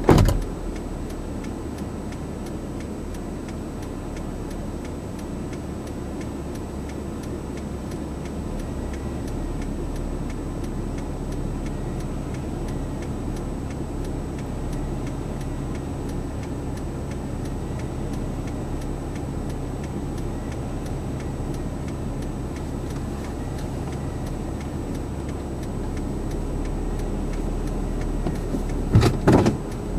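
Car engine idling, heard from inside the cabin, with a steady ticking of the turn-signal or hazard-light relay running over it. There is a short knock right at the start and another brief knock near the end.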